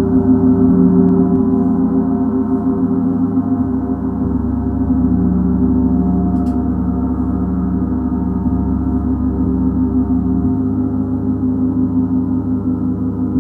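Gong ringing in a continuous sustained wash. Many layered overtones pulse and shimmer into a steady drone, and its low tone shifts a couple of times.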